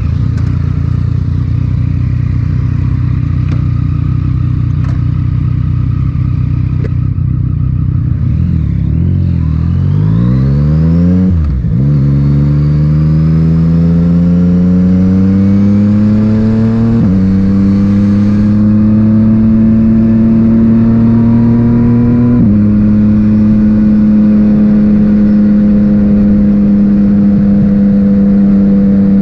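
Yamaha MT-09's inline three-cylinder engine through an Akrapovic titanium exhaust, running steadily at first, then accelerating away with the pitch climbing and dropping at three upshifts before settling into a steady cruise.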